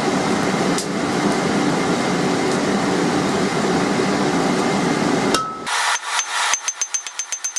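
A steady rush of air from the forge's blower, then after about five seconds a quick run of sharp hammer blows on the steel anvil. The blows come about eight to ten a second and each rings high, as the bar is hammered on the anvil edge to make the tong nibs' set-downs.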